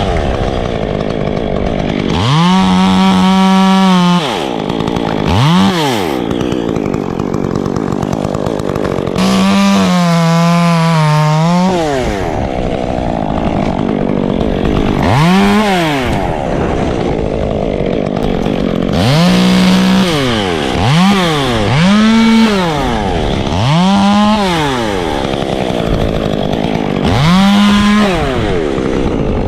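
Two-stroke chainsaw revving up and down about nine times. Several times it is held at full throttle for a second or two, as in cutting wood, and the longest is about two and a half seconds near the tenth second.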